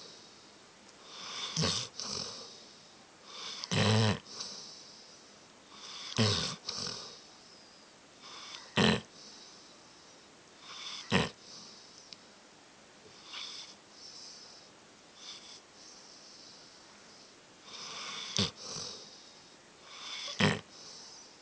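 A dog snoring loudly in its sleep, a short sharp snore about every two to two and a half seconds with softer breathing between, the snores weaker for a few seconds in the middle.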